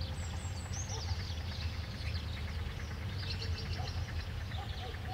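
Small birds chirping and twittering, many short calls overlapping, over a low steady rumble.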